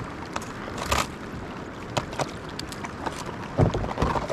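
Kayak being paddled through floating glacier ice: a steady wash of water with many small clicks and knocks of ice against the hull and paddle, and two louder knocks, about a second in and near the end.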